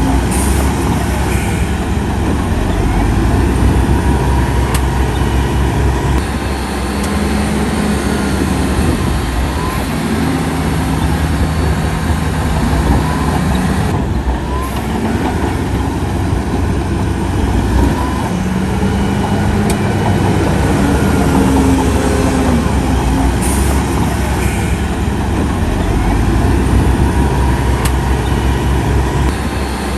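Heavy diesel earth-moving machinery working in sand, running loudly throughout, with the engine note rising and falling several times as it takes load.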